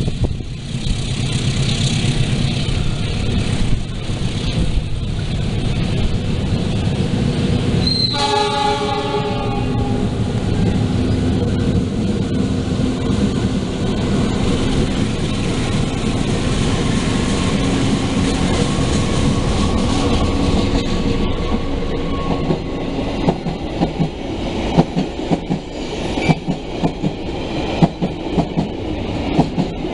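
Train passing with its horn sounded once, about a second and a half long, roughly eight seconds in. Later the wheels clack over the rail joints in quick, regular beats.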